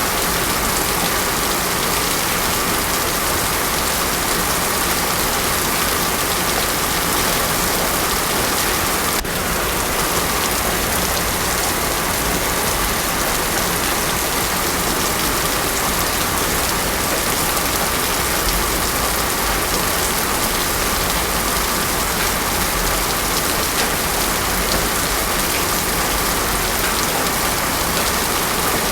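Steady heavy rain without thunder, an even dense hiss of falling water. It dips very briefly about nine seconds in.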